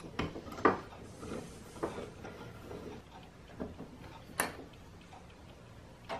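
A few light clicks and knocks from a metal C-clamp being handled and tightened onto a wooden jig board, the sharpest about four seconds in.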